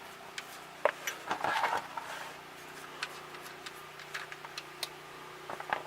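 Scattered light clicks and knocks of hand work on car parts, with a short rustling scrape about a second and a half in, over a faint steady hum.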